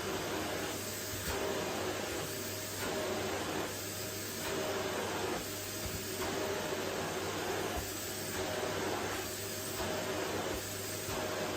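Vacuum cleaner running with a steady motor hum and rush of air. The air noise swells and dips in a regular rhythm about every second and a half, as when the nozzle is worked back and forth over a wooden floor.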